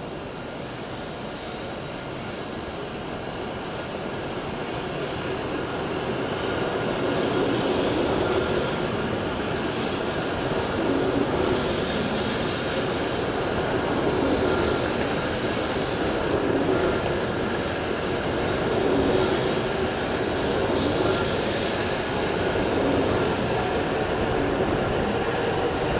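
E7 series Shinkansen train pulling out and gathering speed past the platform. Its running noise grows louder over the first eight seconds or so, then holds steady as the cars go by.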